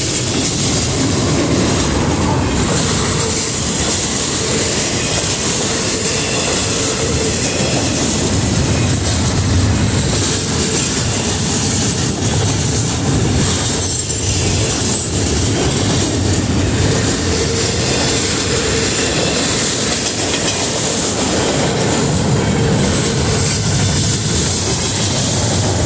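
Double-stack intermodal freight train passing close by: a steady, loud rumble and rattle of loaded container well cars rolling over the rails.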